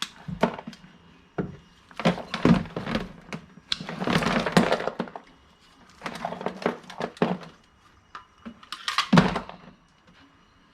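Scrap being handled and sorted by hand: knocks, clatter and rustling of small objects being picked up, cut and dropped, in several bursts a couple of seconds apart.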